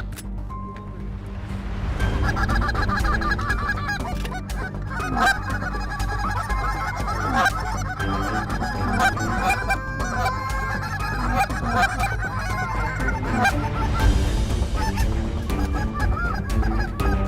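Many geese honking at once, an overlapping chorus of calls that thickens about two seconds in, mixed with hunters blowing goose calls to bring an approaching flock into the decoys.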